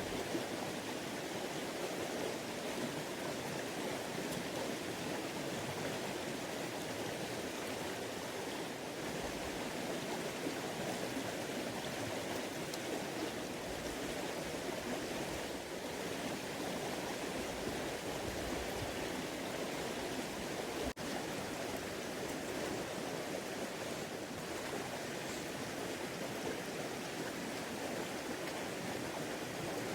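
Creek water running, a steady rushing with no letup, with one faint click about 21 seconds in.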